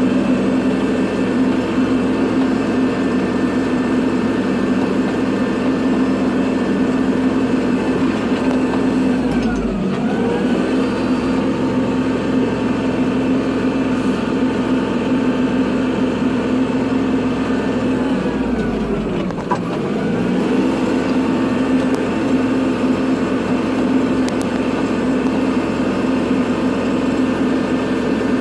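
Kubota tractor's diesel engine running steadily under load while plowing snow. Twice, about ten seconds apart, the engine note dips briefly and comes back up.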